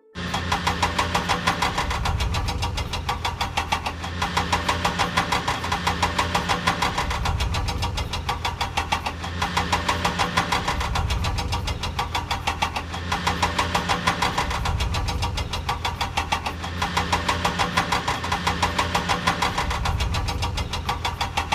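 An engine idling with a steady, fast knocking beat of about five pulses a second over a low hum.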